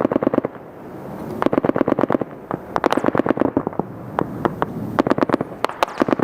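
Small-arms gunfire in a firefight: several rapid bursts of automatic fire, each a quick string of sharp cracks, with short gaps between them.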